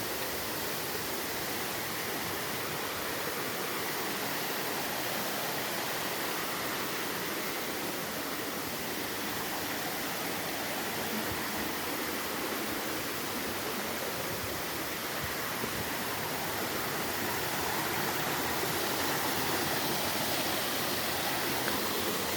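Steady rush of running water from a small stream cascade, growing slightly louder near the end.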